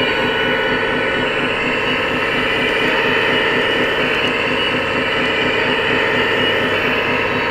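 Radio-controlled scale construction machinery running steadily: a dense mechanical drone with a fast, even pulse.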